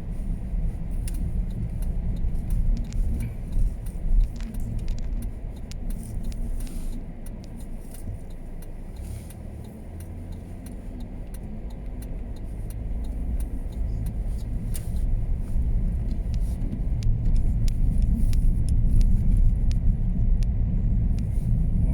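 Car driving noise: a steady low rumble of engine and tyres on the road, quieter in the middle and building toward the end, with scattered light ticks.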